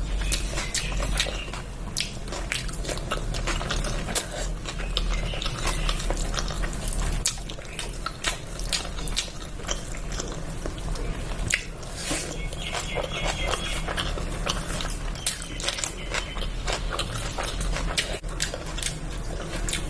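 Close-miked eating sounds: chewing and biting with frequent wet mouth clicks and smacks, over a steady low hum.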